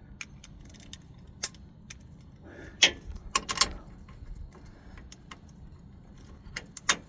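Scattered metallic clinks and taps of hand tools against the truck's steering parts, with a cluster of louder clinks about three seconds in and a couple more near the end.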